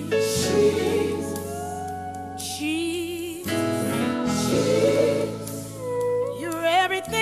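Gospel music: voices singing held, wavering notes over steady accompaniment.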